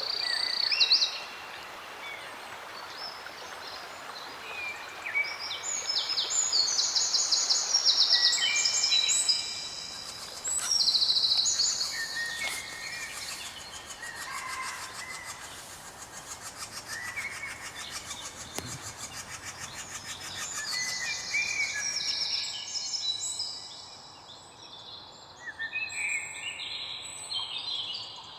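Several songbirds singing over one another, a mix of short chirps and rapid trills at different pitches, over a faint steady background hiss.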